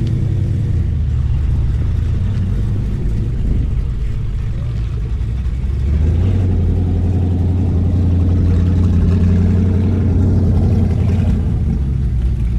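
A car engine running close by, a steady low hum that gets louder and fuller about halfway through.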